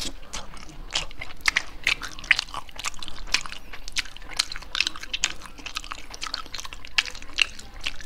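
A person chewing a mouthful of food close to the microphone, with many small irregular crunchy clicks.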